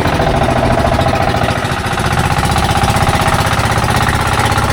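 Fishing boat's engine running steadily under way, a loud chugging made of fast, even firing pulses.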